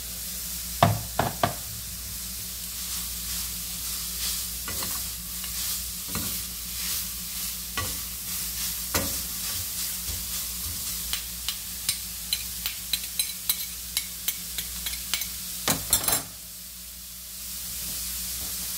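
Shredded cabbage, carrot and chard sizzling in a frying pan while two metal spoons stir and toss it, clicking against the pan. The clicks come fast for a few seconds toward the end, then stop and only the steady sizzle is left.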